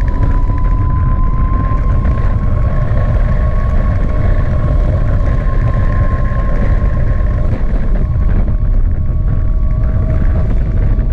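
Gogoro 2 electric scooter's motor whining in one steady high tone that rises slightly early on and fades near the end, over a loud, continuous rumble of wind buffeting the microphone while riding.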